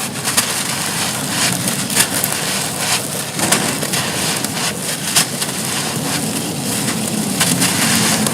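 Soft, dusty charcoal-ash bricks being crumbled: a dense, continuous run of gritty crunching and crackling, broken by sharper snaps every second or so.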